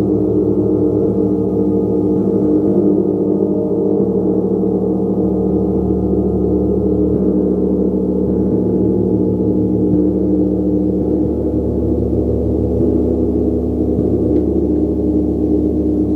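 Large gong played continuously in a sustained, swelling wash of many overlapping tones, a low shimmering roar held at a steady level without distinct separate strikes.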